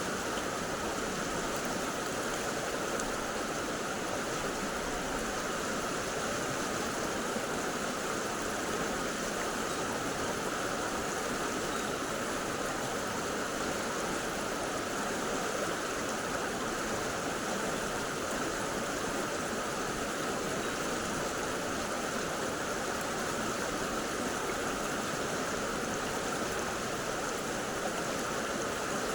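Mountain stream water rushing steadily over rocks, a constant even wash of flowing water.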